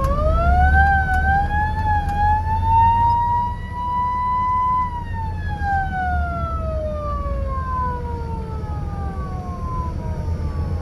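A siren winds up to a high wail and holds it, then about five seconds in it slowly winds down in pitch and fades. A steady low rumbling noise runs underneath.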